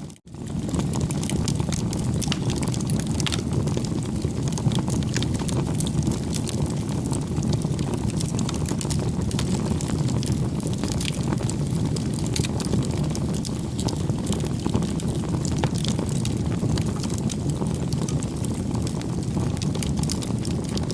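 Wood fire burning, a steady low rumble with scattered irregular crackles and pops. The sound briefly drops out just after the start.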